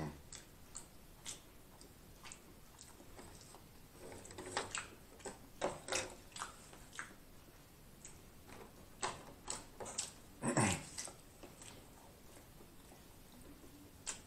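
Close-up chewing and mouth sounds of a man eating corn dogs: irregular wet smacks and clicks. A louder, low, falling sound comes about ten and a half seconds in.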